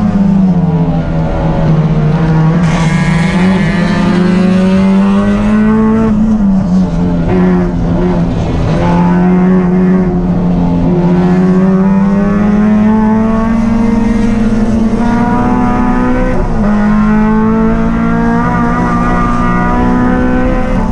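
Race car engine running hard without a break, its pitch climbing and sagging as it accelerates and eases off, with short dips a few times.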